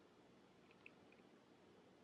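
Near silence: room tone, with a few faint small clicks a little under a second in.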